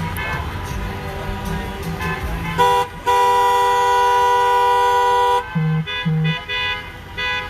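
Vehicle horns honking from passing traffic: one short blast, then a long held blast of nearly three seconds, followed by a few short toots.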